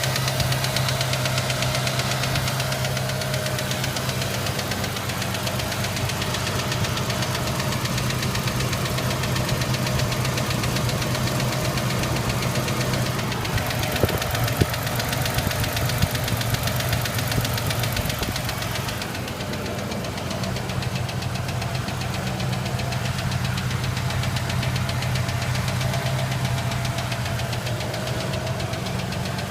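Ranger engine idling steadily with a fast, even ticking running through it: the unexplained tick the owner is asking for help with.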